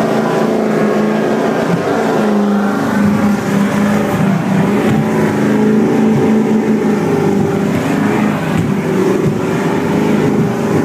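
Jaguar powerboat's engine running steadily at speed, its pitch wavering slightly up and down.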